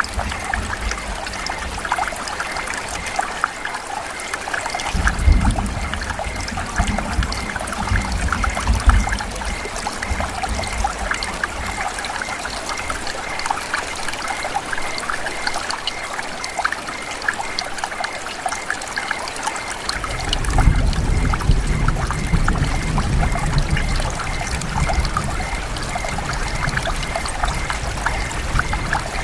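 Steady rain falling, a dense hiss of many separate drop hits. A low rumble comes in about five seconds in, fades around ten seconds, and returns about twenty seconds in.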